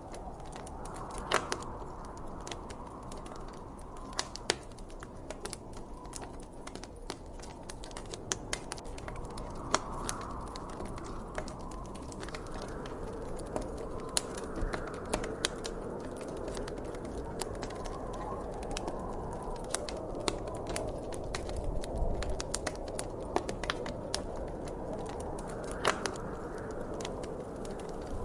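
Wood fire crackling, with frequent irregular sharp pops and snaps over a steady soft rushing background.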